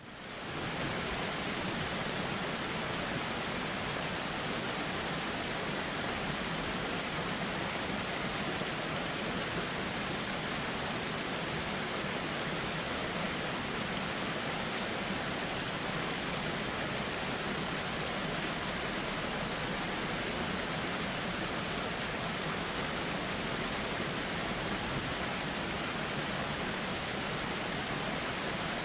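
Steady rushing of a flowing river, an even hiss with no distinct splashes or other events; it fades back in from a brief dip at the very start.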